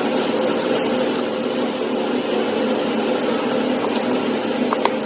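A steady mechanical drone, like a running engine or machinery, holding an even pitch throughout, with a couple of faint clicks.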